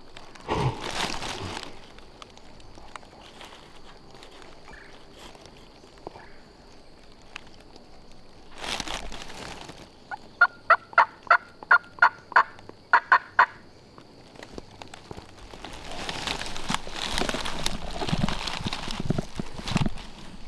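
A run of about eleven sharp turkey yelps, roughly three a second, about halfway through. Bursts of rustling noise come before and after.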